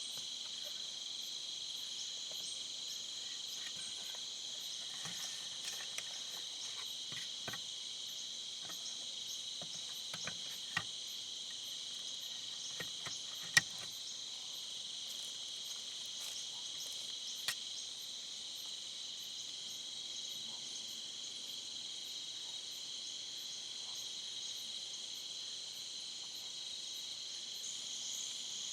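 Steady insect chorus, crickets or similar, trilling without a break, with a few sharp ticks and taps scattered through it, the loudest about halfway through.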